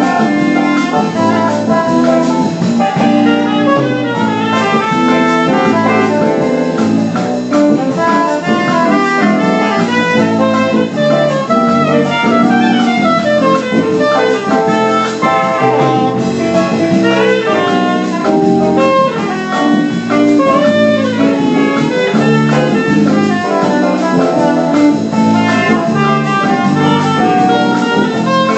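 Jazz group playing a tune continuously, with a melody line over an accompaniment.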